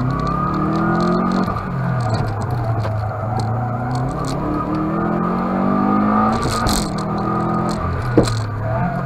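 Subaru Impreza's flat-four boxer engine under hard driving, heard from inside the cabin: revs climbing under acceleration and dropping away again, several times over. A brief sharp thump near the end.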